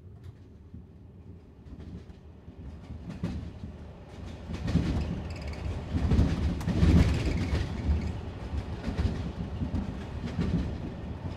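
Passenger train running, heard from inside a carriage: a low rumble with rail clicks. It fades in from quiet and grows louder over the first five or six seconds, then runs on steadily.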